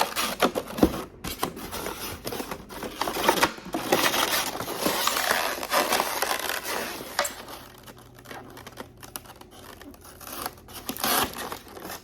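Packaging crinkling, rustling and scraping as a remote-control speedboat is unpacked from its box: busy for the first seven seconds or so, then quieter, with scattered clicks and a short burst of handling noise near the end.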